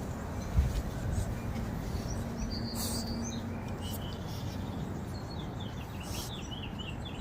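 Small birds chirping over a steady low outdoor rumble, with a quick run of short chirps near the end. A brief thump about half a second in.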